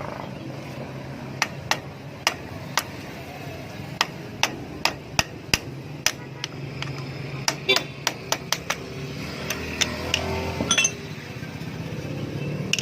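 A hammer tapping on metal: about twenty sharp, irregular strikes in short runs, over a steady low hum.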